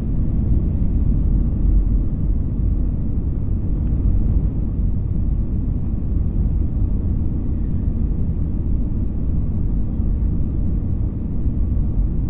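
Passenger airliner cabin noise in flight: a steady low rumble of the engines and airflow, with a faint steady high whine above it.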